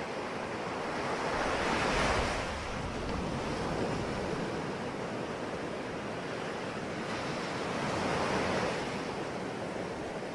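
Sea waves breaking on a shore, the surf swelling twice, about two seconds in and again near eight seconds, over a steady wash of water, with wind on the microphone.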